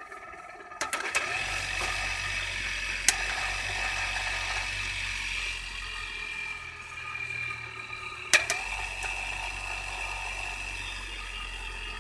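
Small electric induction motor switched on with a click about a second in, then running with a steady hum and high whine. Further sharp clicks come about three and eight and a half seconds in.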